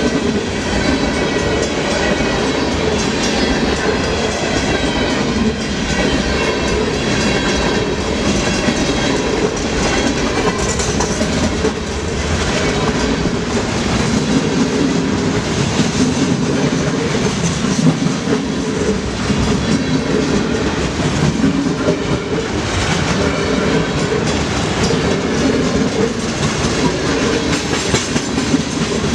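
Freight train running steadily, its wheels clacking over the rail joints.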